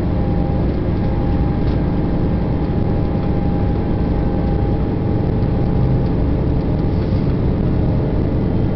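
Steady running noise of a passenger train at speed, heard from inside the carriage: a low, even rumble of the wheels on the track with a faint steady whine above it.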